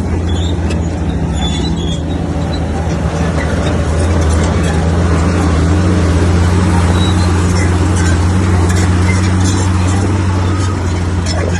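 Komatsu bulldozer's diesel engine running steadily under load, with a deep drone that grows a little louder about four seconds in, and scattered clicks and clanks over it.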